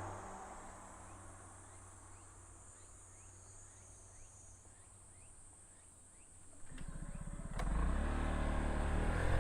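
A vehicle's engine sound fades away, leaving a few seconds of quiet outdoor background. A low engine rumble comes in nearly seven seconds in and grows louder, with a sharp click just before it swells.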